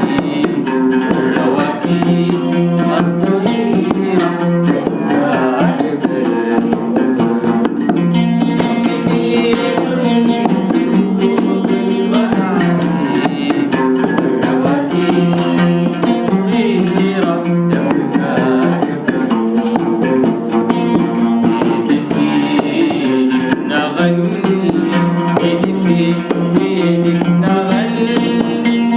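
Sudanese song played live: a plucked string instrument and hand percussion keep a steady tune throughout.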